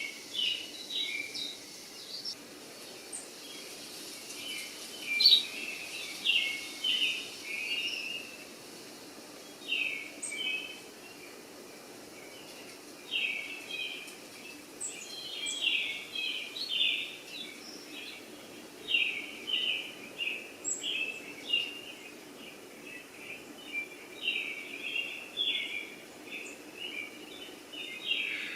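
Small birds chirping: runs of short, high chirps that come and go throughout, over a faint steady background hum.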